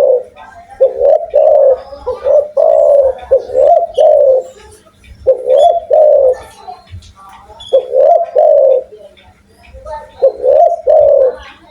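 Spotted dove cooing loudly: its coo phrase repeated in about five bouts, with short pauses between.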